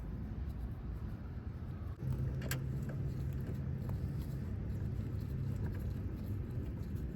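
A steady low motor rumble, like a vehicle engine running, that grows louder about two seconds in, with a single sharp click shortly after.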